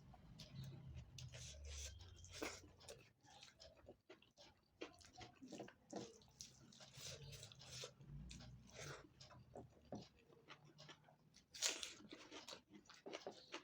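Close-miked chewing of a meal: quick, soft crackling bites and wet mouth clicks, with a sharper crunchy bite near the end.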